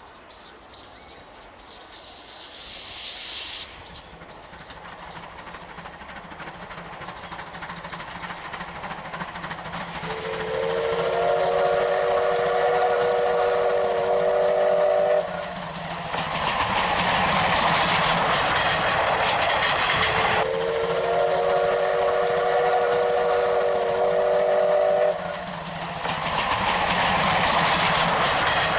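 C12 66 steam locomotive sounding two long blasts of its whistle, each about five seconds and several tones at once, over exhaust and running noise that grows steadily louder. Birds chirp in the first few seconds.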